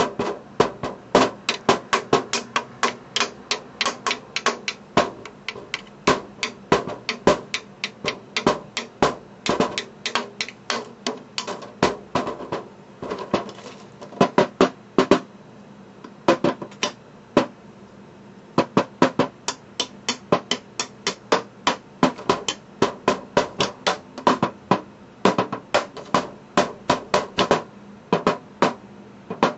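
Springform pan, still in its wrapping, drummed as a percussion instrument: quick runs of sharp metallic taps, several a second, each with a short pitched ring. The strikes thin out for a few seconds around the middle before picking up again.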